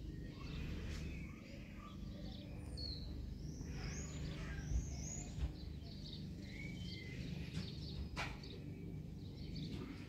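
Small birds chirping in short, arched calls, bunched in the middle, over a steady low outdoor rumble, with one sharp click about eight seconds in.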